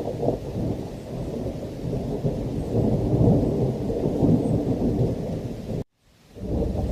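Thunderstorm: deep rolling thunder rumbling over heavy rain, swelling to its loudest about three to four seconds in. Near the end the sound cuts out abruptly for a fraction of a second, then fades back in.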